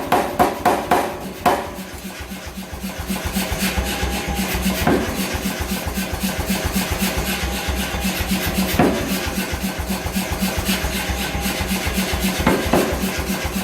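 Steady, fast rasping of a tool working metal over a low steady hum, with a few sharp knocks.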